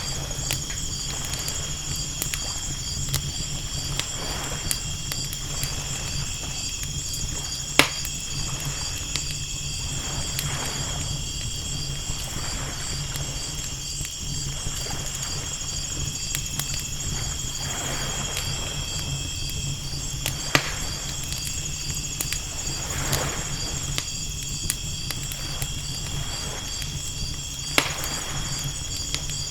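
Ambience of ocean waves washing in soft swells every few seconds, with a crackling fire giving three sharp pops, over a steady, pulsing high chirring of night insects and a low rumble of surf.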